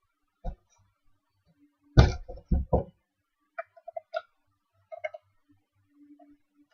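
Plastic clicks and knocks from handling a toy RC transmitter while opening its battery compartment: a single click, a quick run of four louder knocks about two seconds in, then a few lighter clicks.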